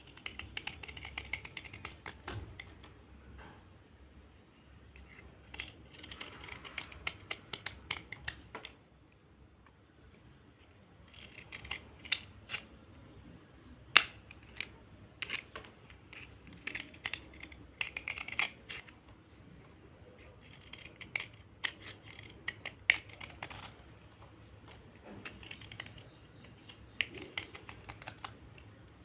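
Small slate bar being scraped: crisp, crunchy scratches and sharp clicks that come in runs of a few seconds, with short pauses between them.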